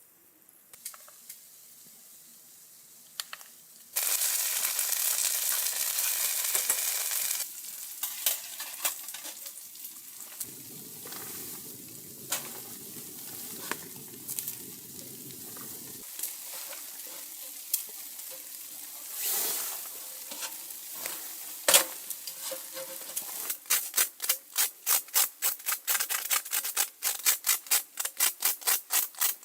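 Food sizzling in a hot pan over a campfire. About four seconds in, a loud burst of sizzling sets in for a few seconds, then settles to a quieter sizzle with scattered clinks and knocks. Near the end comes a fast run of strokes, about four a second.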